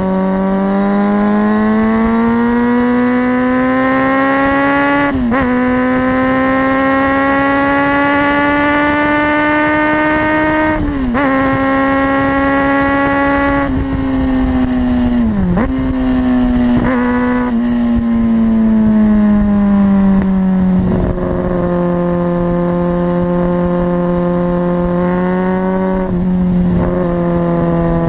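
Kawasaki Ninja ZX-6R inline-four running through a Leo Vince exhaust with the dB-killer removed, accelerating through the gears. The engine note climbs steadily and drops sharply at upshifts about five and eleven seconds in. Around the middle the revs fall away as the throttle closes, and it settles to a steady, lower note for the last several seconds.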